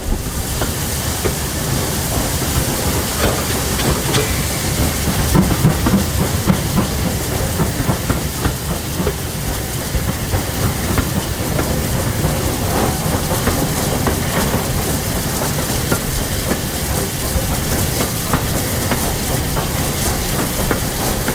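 Heritage steam railway train running along the track, its carriage wheels clattering steadily over the rail joints.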